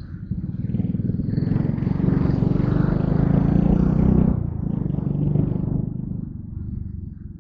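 Motorcycle engine running on the move, getting louder from about a second in and easing back after about four seconds.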